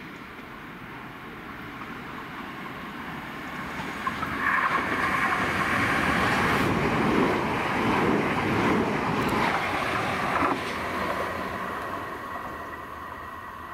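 Southern Class 377 Electrostar electric multiple unit running past along the platform: the rumble of wheels on rail swells, then rises sharply with a steady whine for about six seconds as the train goes by, and fades as it moves away.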